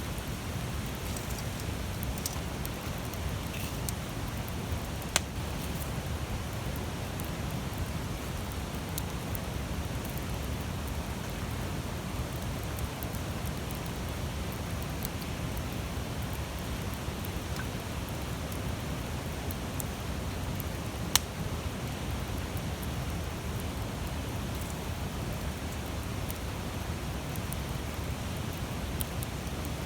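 Large wood campfire burning with a steady rushing sound and scattered sharp crackles, two loud pops about five seconds in and about twenty-one seconds in.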